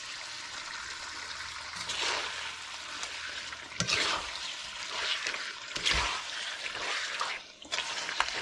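Curry sizzling in a hot karahi. From about two seconds in it is stirred, with uneven scraping sweeps and a few knocks of the spoon against the pot.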